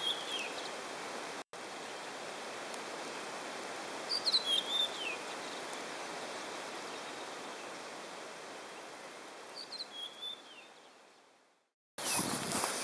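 A small bird calling three times in short chirping phrases over a steady outdoor hiss. The sound fades out near the end and a loud rustling noise takes over in the last second.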